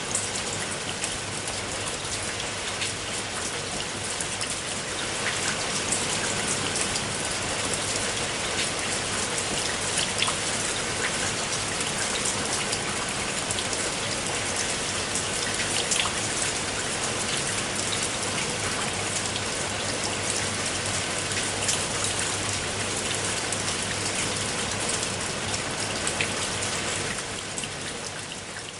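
Steady rain falling, with many individual drop hits standing out.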